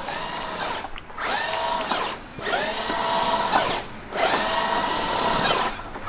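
Traxxas X-Maxx RC monster truck's brushless electric motor whining in throttle bursts. The pitch rises, holds and falls again about three times.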